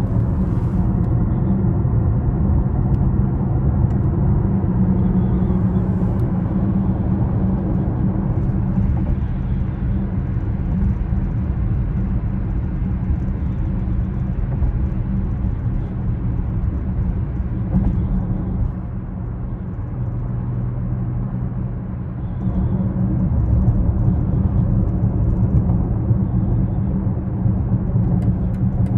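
2020 BMW X6 40i driving: a steady low rumble of its turbocharged 3.0-litre inline-six and road noise. It eases off for a few seconds about two-thirds of the way through, then builds again.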